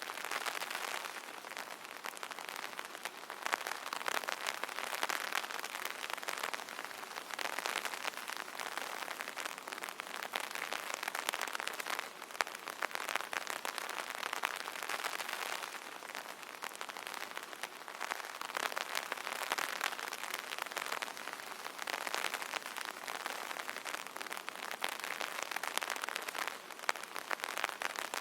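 Rain pattering on an umbrella: a dense, continuous spatter of many small drop impacts that swells and eases in intensity every few seconds.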